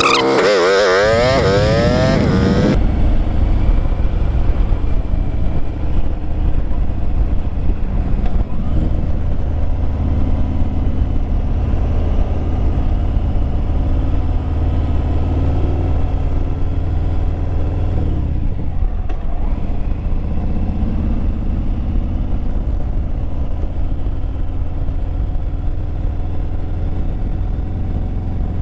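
Motorcycle underway: a steady engine drone under heavy low wind rumble. For the first three seconds a sweeping, shifting whoosh rides over it, then cuts off abruptly.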